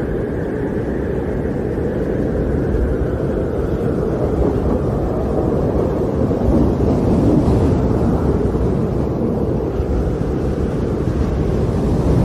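Snowstorm wind blowing hard, a steady deep rushing noise that swells a little and eases again.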